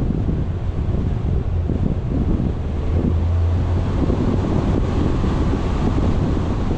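Wind buffeting a camera microphone, with a steady low rumble underneath.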